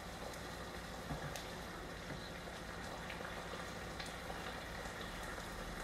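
Pan of chicken and vegetable filling in sauce sizzling softly on the stove, with a few faint ticks of a spoon or utensil.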